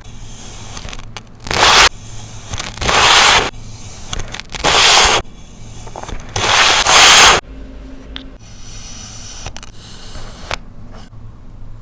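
Kinetic sand being cut through, four cuts each lasting half a second to a second, the last the longest. After that only a few light clicks.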